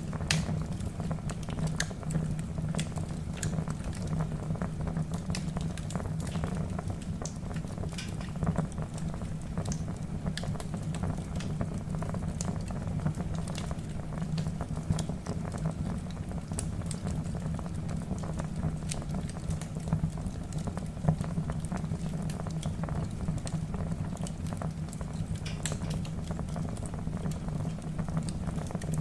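Logs burning in a fireplace: a steady low rumble of flame with frequent sharp crackles and pops, a few of them louder.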